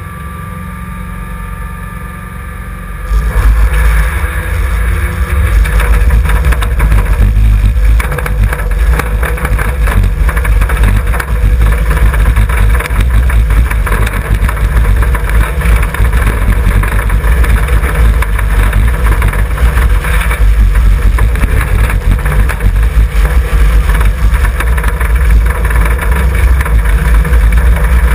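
Mitsubishi Sigma's four-cylinder engine heard from inside its stripped, glassless cabin. It runs steadily at the start line for about three seconds, then the car launches, and the engine runs loud and hard with heavy low rumble through the rest of the dirt autocross run.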